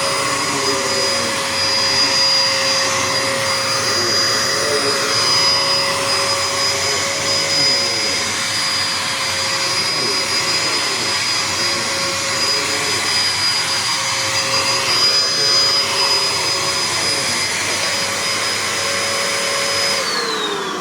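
Bissell AeroSwift vacuum cleaner running with a steady whine. Near the end it is switched off and the whine falls in pitch as the motor spins down.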